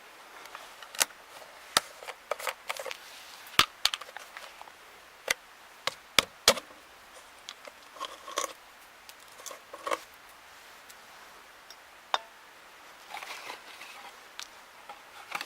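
Irregular clicks, taps and light knocks, a dozen or so spread unevenly, from hands handling an oil filter and a bottle of motor oil while getting the filter ready to pre-fill.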